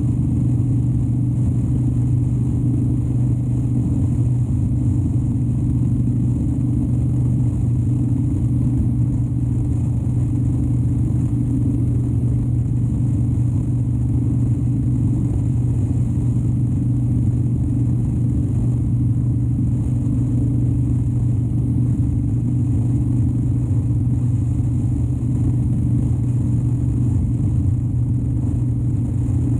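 Harley-Davidson Dyna Wide Glide's 103-cubic-inch V-twin running steadily at an even speed, with no revving or gear changes.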